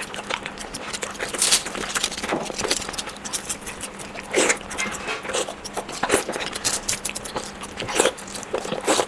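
Close-miked eating of fried eggs: wet chewing and mouth smacks at an irregular pace, with a faint steady hum underneath.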